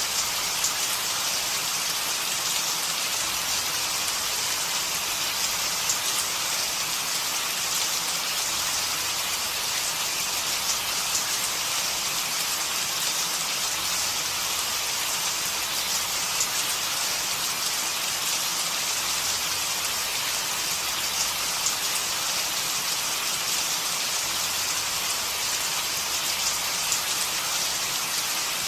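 Steady rainfall, an even hiss of many small drops striking a surface.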